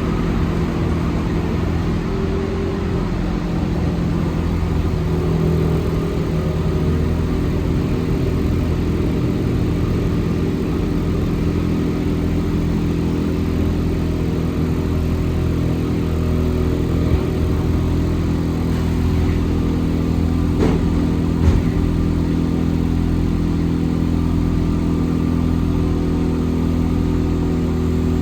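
Inside an Alstom NS-74 rubber-tyred metro car running between stations: a steady hum of traction motors and rolling noise. A couple of brief knocks come about two-thirds of the way through.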